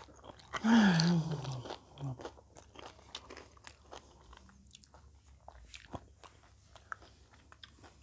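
Close-up chewing of nachos: tortilla chips crunching in the mouth as many small sharp crackles. About a second in, a short voice sound falling in pitch, louder than the chewing.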